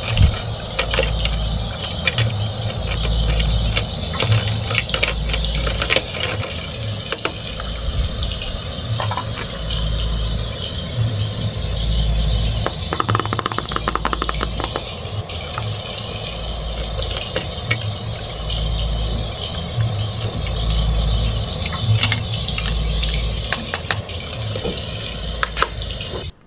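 A steady sizzling, frying-like hiss, pulsing slowly in a looped pattern, from a toy stove's cooking sound effect. Over it come many small clicks and clacks of plastic toy food, pan and utensils being handled. The hiss cuts off abruptly near the end.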